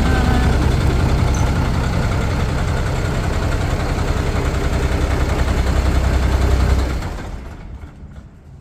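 1995 terminal tractor's diesel engine running steadily, then shut off about seven seconds in and running down to quiet.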